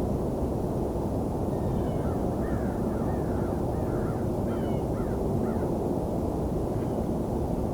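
A bird calling faintly in a quick series of about ten short, slurred notes, starting about a second and a half in and ending past five seconds, over a steady low background rumble.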